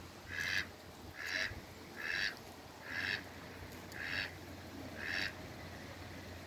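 A duck quacking six times in a steady series, about one short call a second.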